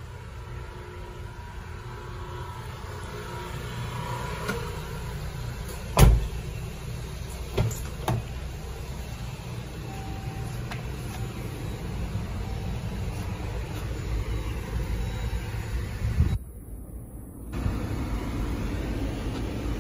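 Jeep Grand Cherokee idling with a steady low rumble, with a loud thud about six seconds in, two lighter clicks soon after, and another thud a little past sixteen seconds.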